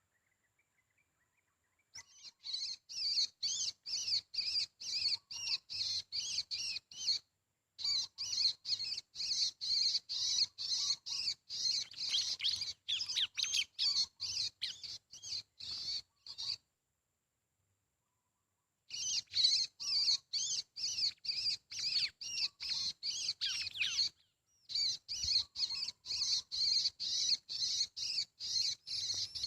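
A small songbird chirping: short, high calls repeated quickly, about two or three a second, in long runs. The runs cut off abruptly twice.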